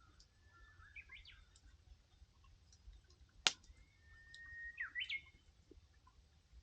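A wood campfire crackling faintly, with one sharp pop about three and a half seconds in, while a bird calls with short whistled notes about a second in and again near the end, the last one sliding quickly upward.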